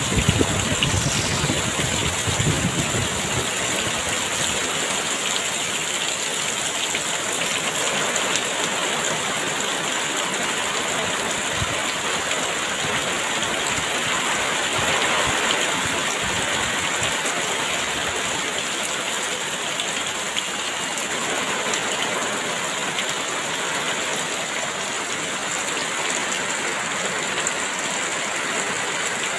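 Heavy rain pouring steadily, with a low rumble of wind gusts in the first few seconds.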